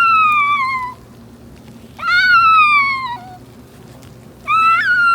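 Playground swing squeaking as it swings back and forth: three long, high squeals that each fall in pitch, evenly spaced about every two and a half seconds.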